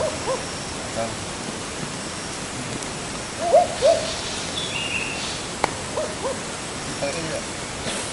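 An owl hooting in short, quick pairs of notes, repeated several times, with a few thin, higher bird calls in between, over a steady hiss.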